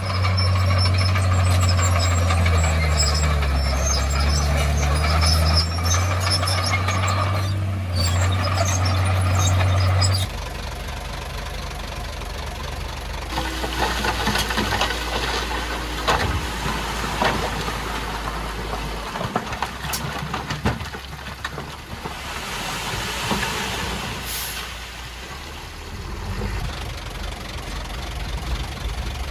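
Komatsu D51PX bulldozer's diesel engine running with a steady low drone. About ten seconds in it suddenly drops to a quieter, lower drone with scattered clanks and rattles.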